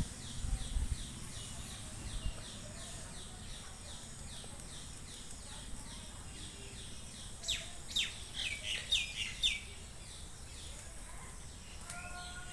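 Songbirds calling: a quick, even series of short falling chirps, then a handful of louder, sharp falling notes about eight seconds in.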